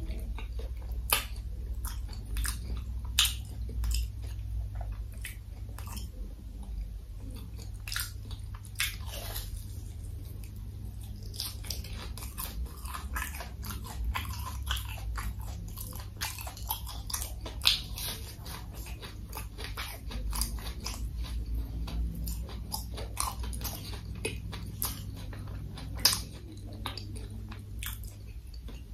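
A person biting into and chewing crispy fried food close to the microphone, with frequent irregular sharp crunches, over a steady low hum.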